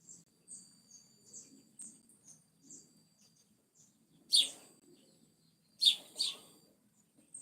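Birds chirping: a run of short, high chirps about twice a second, with three louder, sharper calls a little past halfway.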